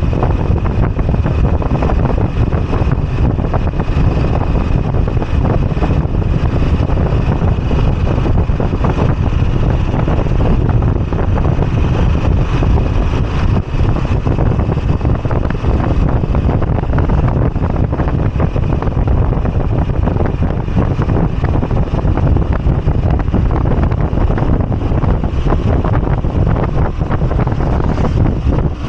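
Moto Guzzi V85TT's air-cooled transverse V-twin running steadily on the move, with wind rushing over the microphone.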